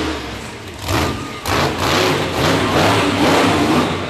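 Monster truck engine revving in repeated surges, its pitch rising and falling, after a brief lull in the first second.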